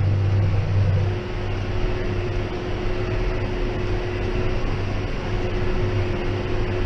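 John Deere 6190R tractor running steadily under light load while driving a Claas 3300 square baler: an even engine drone with a thin steady whine over it.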